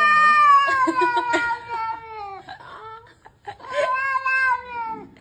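A cat giving two long, drawn-out yowls, each slowly falling in pitch; the first lasts about two and a half seconds, and the second follows after a short pause.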